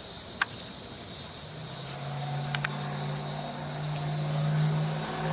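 Steady high-pitched chorus of insects, crickets or similar, buzzing without a break. A low steady hum joins in about a second and a half in, and there are a couple of faint clicks.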